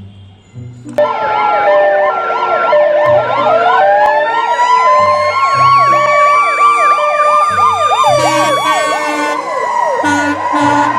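Electronic siren sounds from a toy ambulance, starting about a second in, with several siren patterns layered at once: a fast up-and-down yelp, a two-note hi-lo and a slow wail that rises and then holds. Background music continues underneath.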